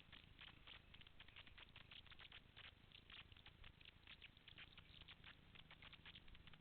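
Near silence, with faint, rapid, irregular clicking and crackling throughout.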